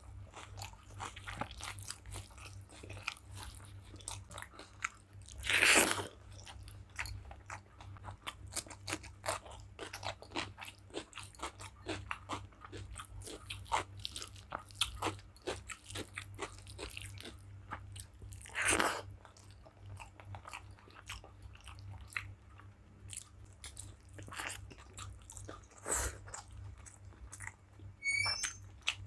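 Close-up mouth sounds of a person eating a meal of rice with curries and fried vegetables: chewing and biting, with many small sharp clicks and two louder, longer noises about six and nineteen seconds in. A low steady hum runs underneath.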